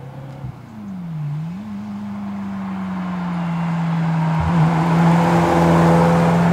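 Ferrari F355 Challenge's 3.5-litre V8 approaching at speed and passing close by. Its engine note dips and climbs again about a second in, then holds steady while it grows steadily louder as the car nears.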